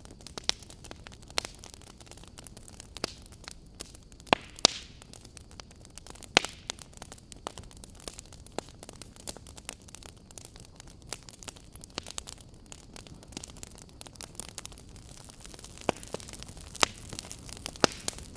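Wood fire burning in a fireplace: a steady soft hiss with irregular sharp crackles and pops from the burning logs, a few of them loud.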